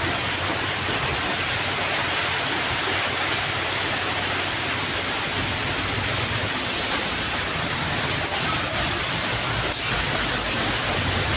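Road traffic noise of a truck on a hill road: a steady rumble and hiss of engine and tyres, turning choppier and a little louder in the last few seconds.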